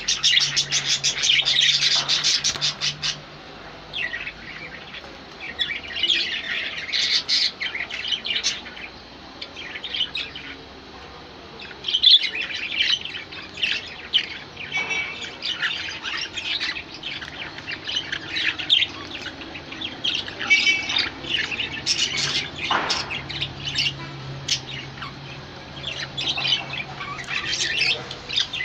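Small caged pet birds chirping and squawking in many short high calls, with a single sharp click about twelve seconds in.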